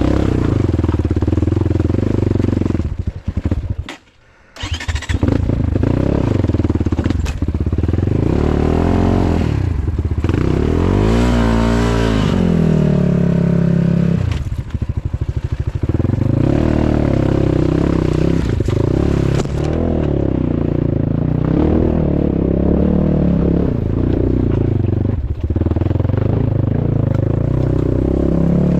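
Off-road motorcycle engine running under throttle. It cuts out for about half a second around four seconds in, then picks up again. Near the middle the revs rise and fall several times.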